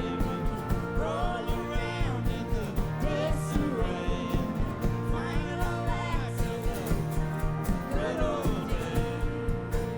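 Live band playing a country-rock song: a woman singing over guitars and a steady drum beat.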